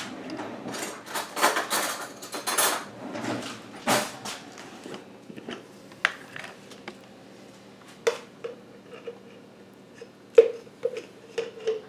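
A utensil scraping and clinking as coconut oil is scooped from its jar into a glass measuring cup of white chocolate chips. In the second half come a series of sharp taps, each ringing briefly.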